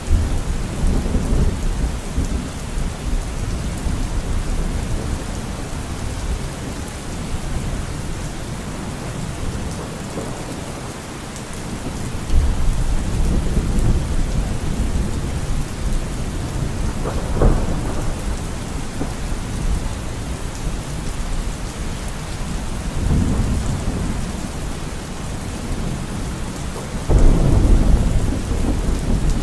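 Steady rain falling, with rolls of thunder rumbling low underneath: one at the start, another from about twelve seconds in, a sharper clap at about seventeen seconds and a loud rumble near the end.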